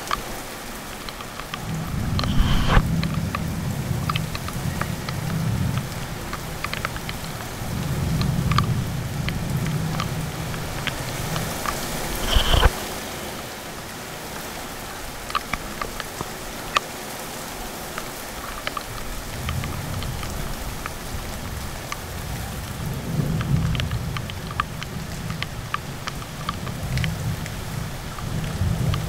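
Heavy rain pouring steadily, with many sharp taps of drops landing close by. Low rumbling comes and goes, with a brief loud swell about halfway through.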